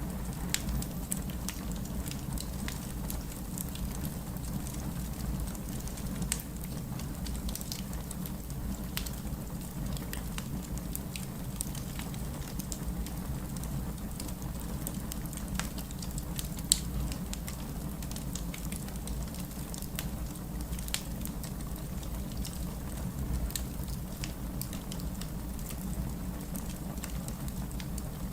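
Wood fire crackling, with many sharp pops and snaps scattered irregularly through it, the loudest about 17 seconds in, over a steady rush of heavy rain.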